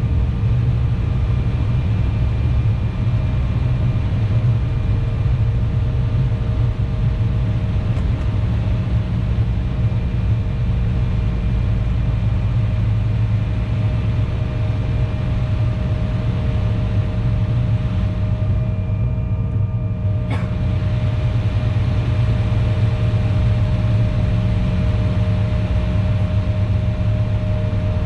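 Steady cabin noise of an Embraer E175 on the ground, its General Electric CF34 turbofans running at low power with a deep rumble and a few steady whining tones. A single short click about twenty seconds in.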